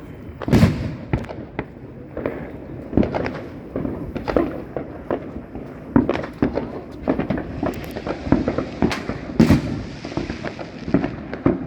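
Consumer fireworks and firecrackers going off: a rapid, irregular string of pops and bangs, several a second. The loudest bangs come about half a second in and again around nine seconds.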